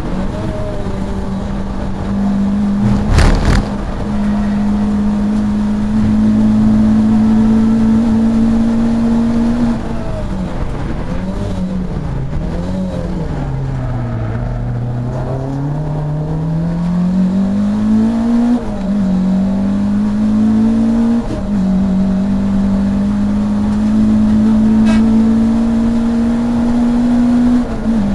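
Racing saloon car's engine heard from inside the car, held at high revs, then dropping away as the car slows and climbing back up through the gears, with quick steps in pitch at the gear changes. A sharp bang about three seconds in.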